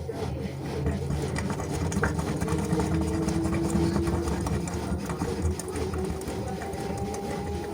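LG washing machine motor running as the drum turns, with a whine that rises slowly in pitch.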